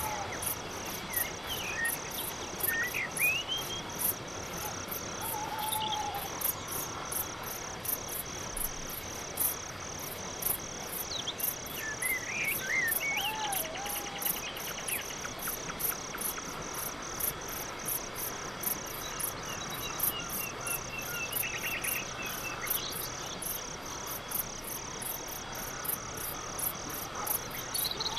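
Crickets chirping in a steady, even rhythm of a few high chirps a second over a soft background hiss. Short bird calls and whistles come in now and then, with a quick run of repeated notes a little past the middle.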